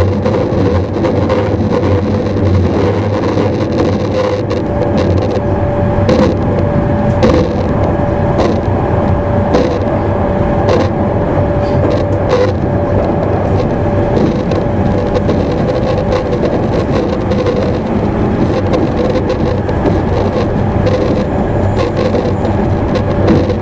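Running noise heard inside a JR East E259 series Narita Express motor car cruising at steady speed: a steady rumble from the wheels and track, with a steady whine held at one pitch and scattered short clicks.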